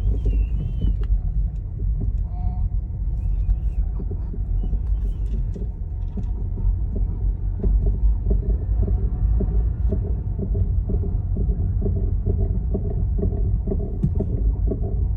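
BMW F30 driving with a steady low rumble and a repeated knocking underneath it. The knock is felt through the steering wheel and pedals.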